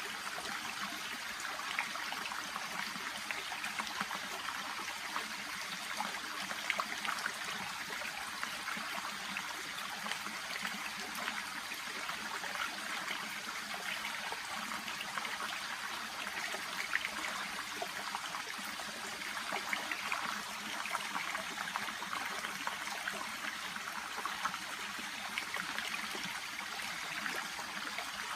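A shallow brook babbling and trickling steadily, with a continuous light rush of water and small splashes and gurgles.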